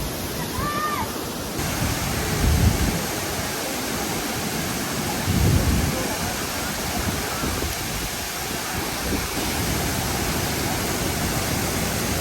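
Large waterfall roaring: a steady, dense rush of falling water close by. Two louder low rumbles of wind buffet the microphone about two and a half and five and a half seconds in, and a short high call sounds just before the one-second mark.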